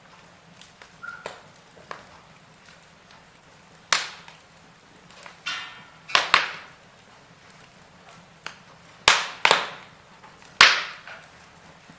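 Wood fire in a fireplace crackling, with about six loud, sharp pops of the burning logs among fainter ticks, and a short hiss near the middle.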